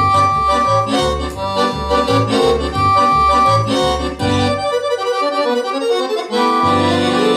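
Accordion playing a tune over an alternating bass-and-chord accompaniment. About four and a half seconds in, the bass drops out; near the end a new passage begins with held chords and a rising line.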